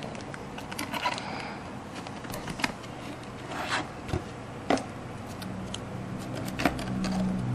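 Scissors snipping through the model material at an angle: a few scattered sharp snips and short scratchy cuts.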